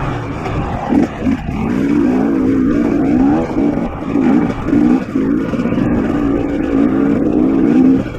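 KTM 250 XC-W two-stroke dirt bike engine revving up and down as the throttle is worked at low speed, with its pitch rising and falling constantly and briefly dropping off a few times.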